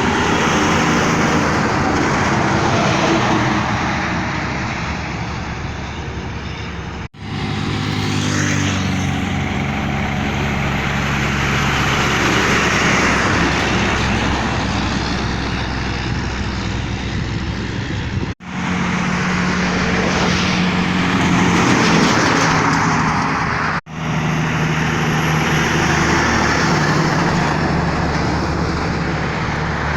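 Heavy tractor-trailer trucks running on the road, their diesel engines pulling and changing pitch as they rev and shift. The sound drops out abruptly three times and picks up again.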